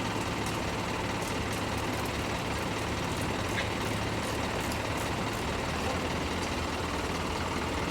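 Steady vehicle engine hum with road and traffic noise, even throughout.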